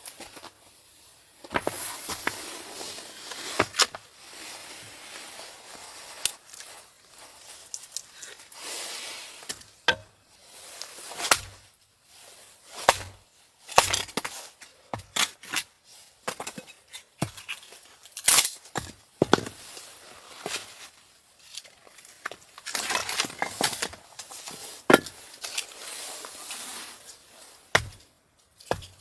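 Irregular sharp knocks and cracks, some in quick clusters, with quieter scraping or rustling between them.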